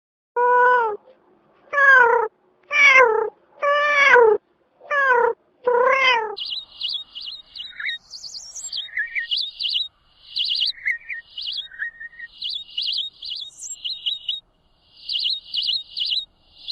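A cat meowing six times, each call rising and then falling in pitch. It is followed by a small bird chirping in quick runs of short, high notes with a few lower notes mixed in.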